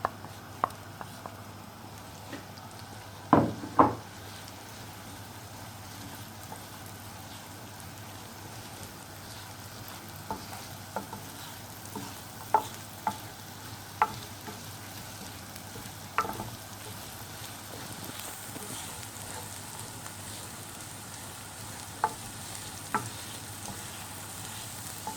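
Chopped onions sizzling in melted butter in a non-stick frying pan, lightly frying, with a steady hiss. A utensil stirring them knocks against the pan a dozen or so times: a pair about three seconds in, several in the middle, two near the end.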